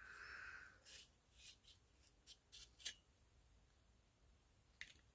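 Near silence broken by faint rustles and a few small clicks as an opened old light switch and its cardboard insulator are handled.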